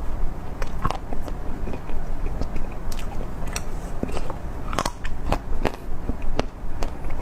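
Close-miked ASMR eating: bites and crackling, crunchy chewing of food, a string of sharp irregular clicks and crunches.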